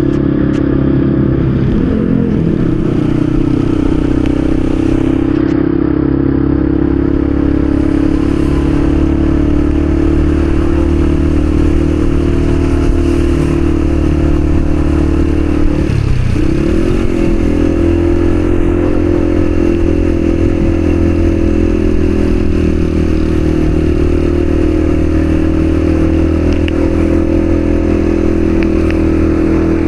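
Yamaha XSR155's single-cylinder engine running steadily under way. About halfway through its note briefly drops and climbs back, then holds steady again.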